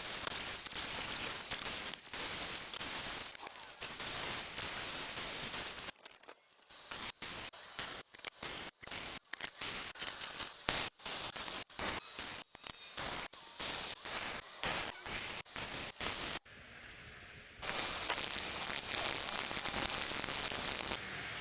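MIG welding: a steady frying crackle, broken in the middle into many short bursts like tack or stitch welds, then one longer, louder run near the end.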